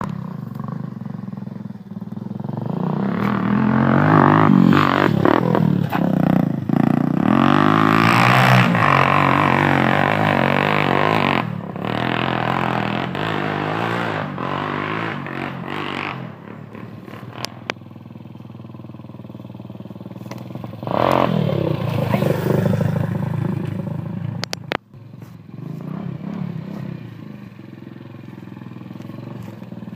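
Dirt bike engines on a motocross track, revving up and down as the bikes pass. They are loud through the first half, fade, then rise again in another loud pass about two-thirds of the way through.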